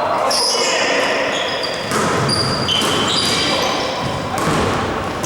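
Basketball game in a gym: sneakers squeaking in short high chirps on the court, with the ball bouncing and players' voices in the hall.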